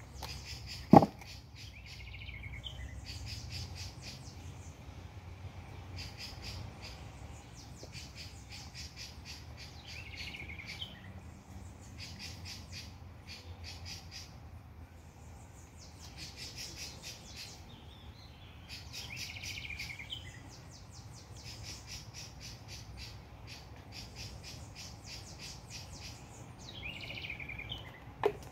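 Birds singing: a rapid, high trill repeats every few seconds, with a lower chirping call now and then. A single sharp knock about a second in.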